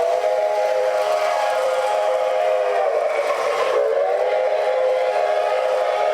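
Multi-chime steam-locomotive whistle sound from an O-scale model train, a chord held long and steady. About three seconds in it sags slightly in pitch, then comes back up.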